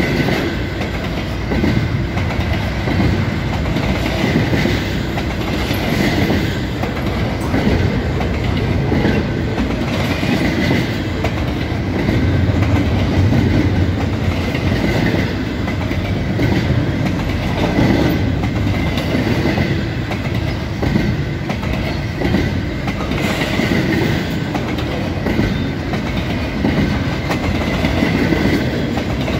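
Double-stack container well cars of a freight train rolling past close by: a loud, steady rumble of steel wheels on the rails with continuous clickety-clack, and a faint high ringing that comes and goes.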